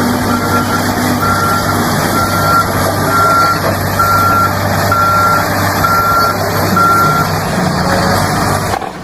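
Excavator's travel alarm beeping about once a second over the steady run of its engine; the beeping stops near the end.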